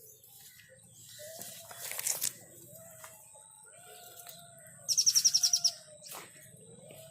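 A bird's rapid trill of about nine high chirps, about five seconds in, is the loudest sound. Fainter arched calls come and go around it.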